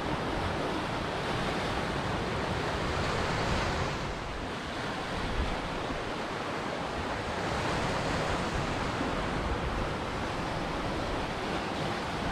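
Ocean surf: waves breaking and washing ashore in a continuous rush, easing briefly about four seconds in before building again.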